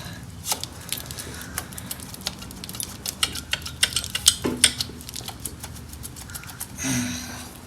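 Scattered light metallic clicks and clinks of engine parts and hand tools being handled during teardown, busier in the middle, with a brief louder rustle near the end.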